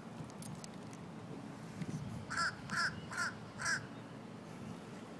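Crow cawing: four short calls in quick succession about halfway through.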